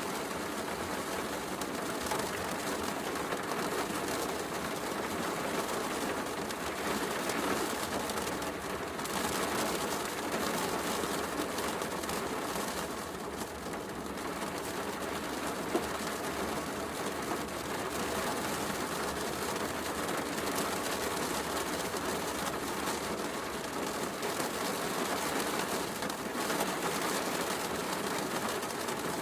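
Steady heavy rain mixed with a fireplace crackling, with one sharper crack from the fire about halfway through.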